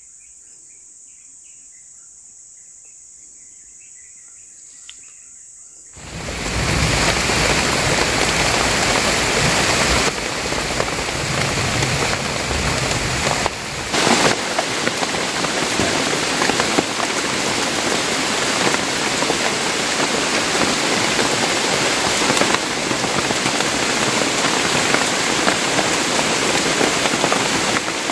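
Faint steady insect buzzing, then about six seconds in heavy rain comes in suddenly and pours on steadily.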